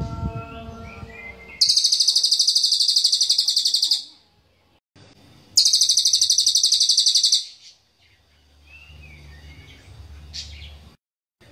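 A cililin bird singing its sharp, very rapid, high-pitched trill in loud bursts of about two seconds, twice, with a third starting near the end. Faint chirps fill the gaps.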